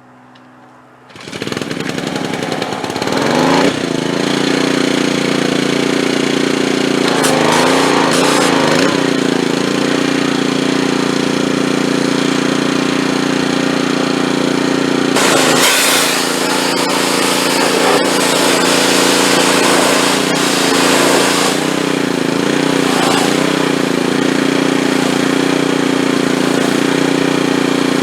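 Gas pressure washer's small engine starts about a second in and runs steadily under pump load, with several brief wavers in its note. These hiccups come from air in the water hose being pushed out.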